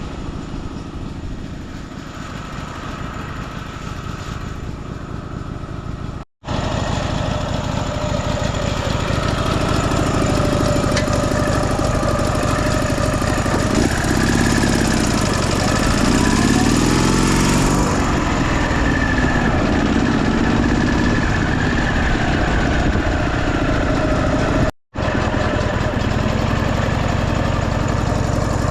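Motorcycle engine running steadily, getting louder about six seconds in, with its pitch rising and falling through the middle stretch. The sound cuts out completely for a moment twice.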